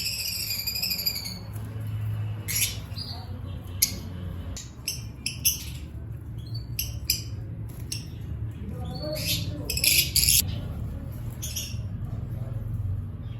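Yekshar canary singing: a warbling trill at the start, then scattered short, high chirps and call notes. A steady low hum runs underneath.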